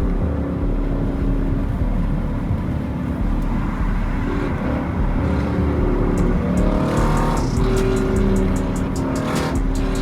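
Car engines running with music playing alongside, a steady heavy low rumble under held tones, and regular ticking coming in near the end.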